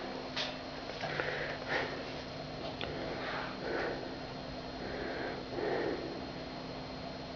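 Repeated short sniffs at irregular intervals, about eight in all, over a faint steady hum.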